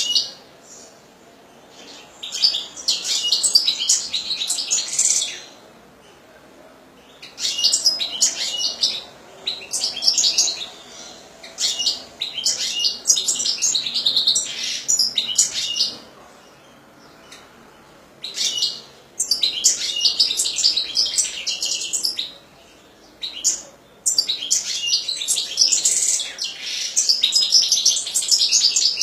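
European goldfinch singing: several fast, high-pitched song phrases of a few seconds each, broken by short pauses.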